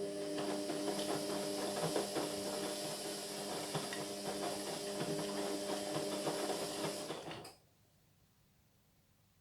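Indesit MyTime washing machine's drain pump running: a steady electric hum with small rattles and clicks that cuts off suddenly about seven and a half seconds in.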